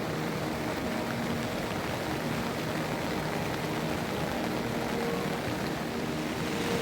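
Heavy monsoon rain falling with a steady hiss.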